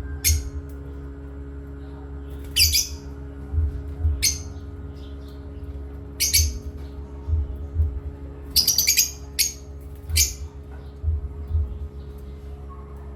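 A pet parrot giving short, sharp chirps and squawks every second or two, with a quick run of several calls about nine seconds in.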